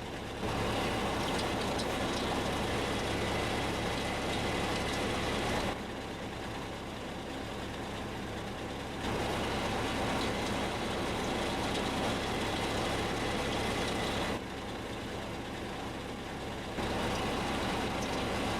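Small pickup truck's engine idling. Three times a hum from the clutch release (throw-out) bearing comes in for several seconds and stops abruptly, as the clutch pedal is pressed and released. This is the typical sign of a dry, failing release bearing.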